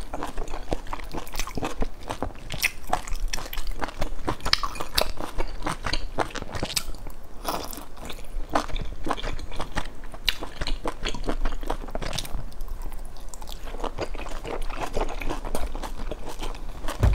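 Close-up eating sounds: a person biting and chewing a large pan-fried stuffed bun, with many short wet mouth clicks and crunches throughout.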